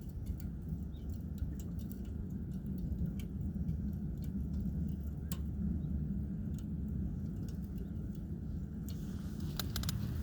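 Wood campfire burning low, crackling with scattered sharp pops over a steady low rumble, with a quick run of pops near the end.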